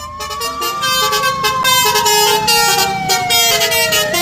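A wailing siren with one slow cycle: it rises, falls gradually over about three seconds, then rises again near the end, over a rhythmic beat.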